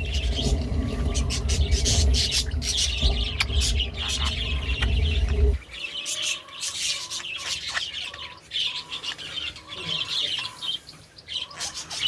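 Pet bird chirping repeatedly in short high calls. A low steady rumble underneath cuts off suddenly about halfway through.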